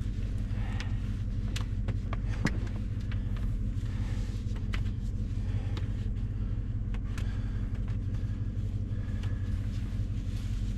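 Chevy Silverado's V8 idling steadily with an even low hum, overlaid by scattered light clicks and taps, one sharper click about two and a half seconds in.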